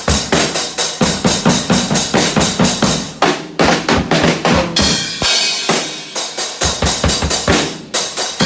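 Drum kit played with sticks: a fast, steady run of bass drum and snare strikes, several a second.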